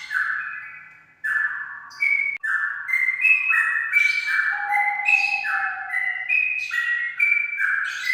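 Straw-headed bulbul (cucak rawa) singing loud, rich warbling phrases of stepped whistled notes, one after another, with a short pause about a second in.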